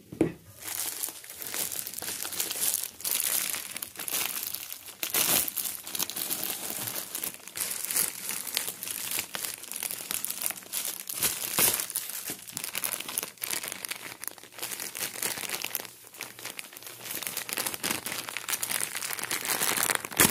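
Packaging being opened and unpacked by hand: continuous crinkling and rustling full of sharp crackles, with some tearing.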